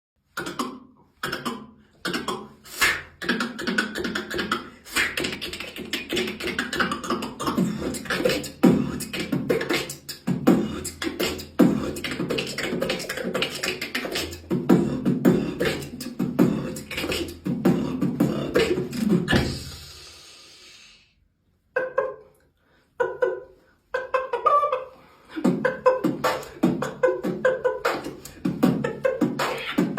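Vocal beatboxing: a fast, dense run of mouth-made drum clicks and voiced sounds. About twenty seconds in it ends in a hiss and breaks off, a few single hits follow, and the beat picks up again shortly after.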